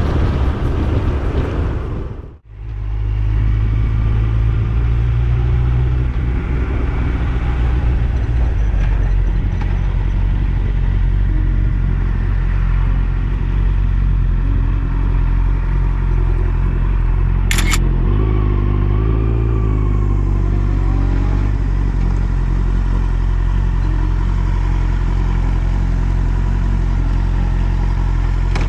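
Yamaha YZF-R1's inline-four engine running at steady revs after a brief drop-out about two seconds in. A single sharp click about seventeen seconds in.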